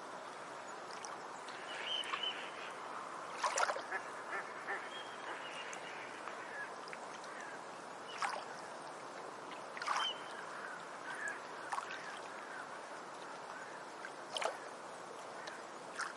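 Forest ambience with a steady background hiss, broken by short bird calls several times, the loudest about three and a half seconds in.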